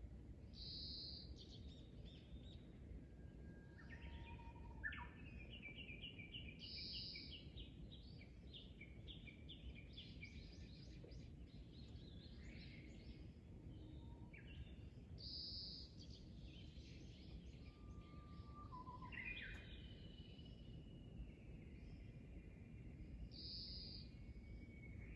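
Faint birdsong: several wild birds chirping and trilling, one short high call repeating about every eight seconds, over a steady low background rumble.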